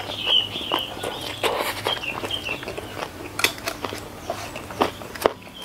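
Close-miked chewing of a mouthful of rice with sambal, full of wet mouth clicks and smacks.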